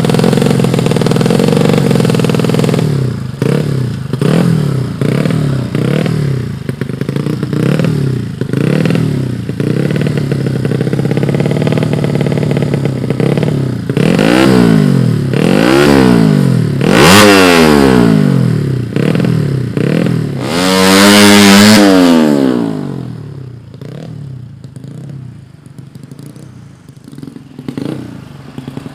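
Drag-tuned 115cc motorcycle engine being revved in repeated throttle blips, the pitch rising and falling again and again. It gives a few harder, higher revs after the middle, then drops back to a quieter idle near the end.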